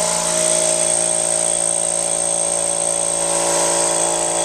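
Craftsman 2-gallon oil-lubricated air compressor with a cast iron cylinder running steadily, its motor and pump giving an even hum with a high whine on top.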